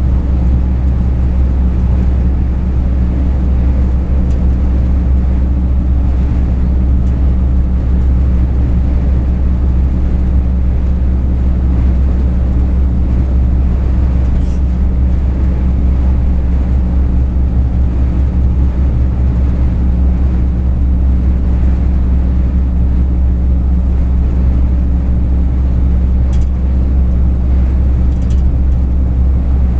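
Truck engine and road noise droning steadily at a constant speed, heard from inside the cab, with a few faint ticks.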